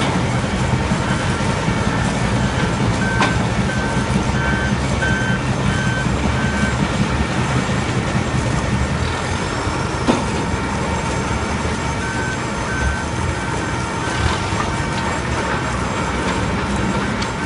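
Mobile log debarker running steadily under load, a continuous mechanical din with a low hum and an occasional knock. A vehicle's reversing alarm beeps about once a second in two stretches over it.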